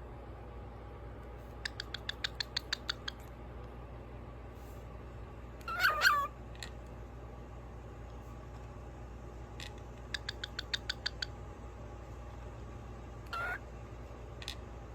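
Lutino pied cockatiel calling: two runs of quick short chirps, about seven a second, with a louder wavering squawk between them and a shorter call near the end.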